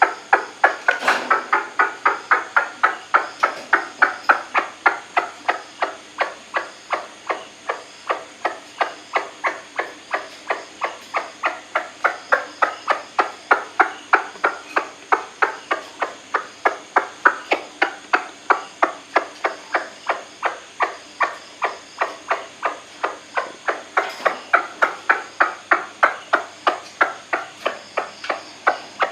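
White-breasted waterhen calling: a steady, unbroken run of short, sharp notes at about three a second.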